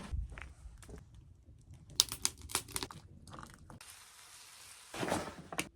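A run of sharp clicks and rattles, then a steady hiss from about four seconds in that grows louder near the end.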